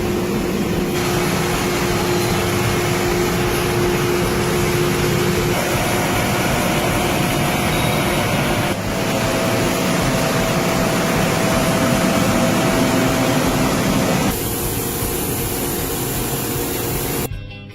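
CNC machine-shop noise from machining bearing rings: a steady hiss and hum with faint whining tones that change abruptly several times. Music starts near the end.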